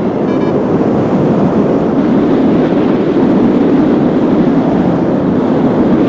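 Strong wind rushing over the microphone of a paraglider in flight, a loud steady rush. Just after the start the last electronic beeps of a flight variometer trail off.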